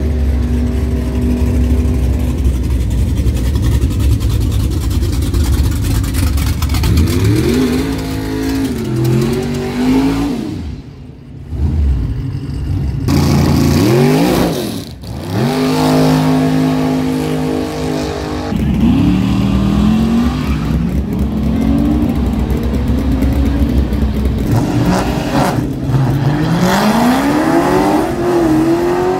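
Drag racing cars' engines idling with a steady low drone, then revving and accelerating hard, the pitch rising in a series of sweeps as cars launch down the strip.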